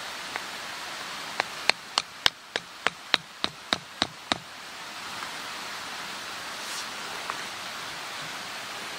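A quick run of about a dozen sharp knocks with a slight ringing edge, about three a second, starting about a second and a half in and stopping near the halfway point, over a steady rushing background noise.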